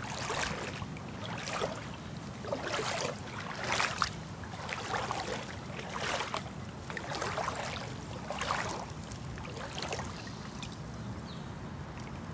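Feet wading through a shallow creek, water splashing and sloshing with each stride about once a second, fading out near the end. A steady high insect buzz runs underneath.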